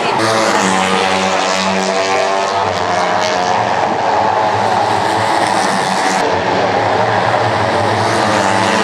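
A loud, steady engine drone holding an almost constant pitch throughout.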